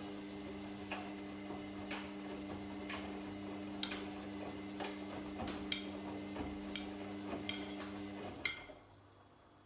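Washing machine running with a steady motor hum and light clicks about once a second; the motor stops about eight seconds in, with a last louder click.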